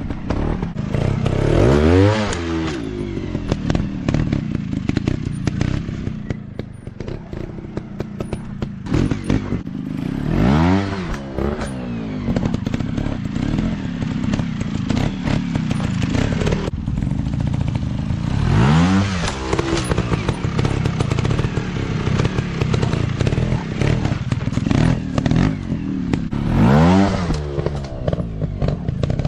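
Dirt bike engines running on a practice track, with one bike revving hard and easing off about every eight seconds, four times, each rev rising and falling in pitch over a constant drone from other bikes.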